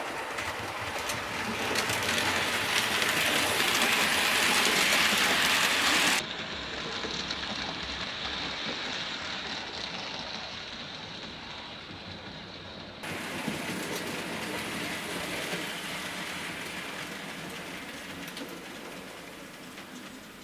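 H0-scale model trains running on the layout's track: a steady rolling hiss that swells over the first few seconds. The sound changes abruptly twice, about six and thirteen seconds in, and slowly fades near the end.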